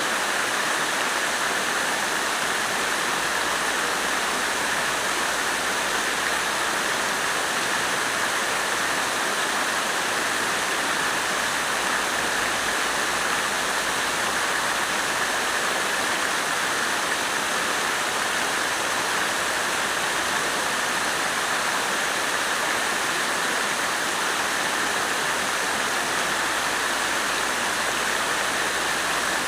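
Water fountain running: a steady, unchanging splash of falling water.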